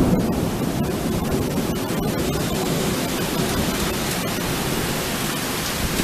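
Steady hiss of heavy rain during a thunderstorm, with low thunder rumbling and dying away in the first moments.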